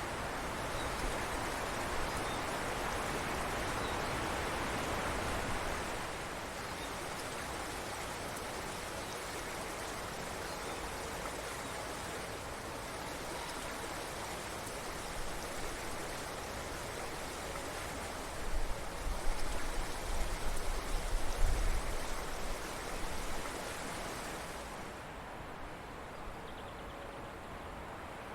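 Forest stream flowing, a steady rushing of water that drops in level about six seconds in and again near the end. About two-thirds of the way through, a few seconds of low rumbling bumps.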